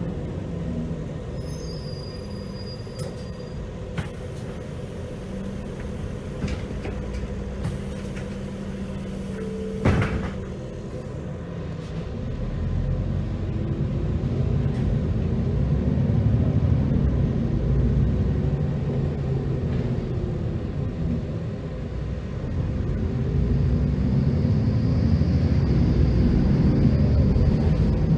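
Heuliez GX327 GNV city bus's natural-gas engine running at low revs, then pulling away and accelerating, growing louder through the gears from about halfway. A single sharp knock comes about a third of the way in.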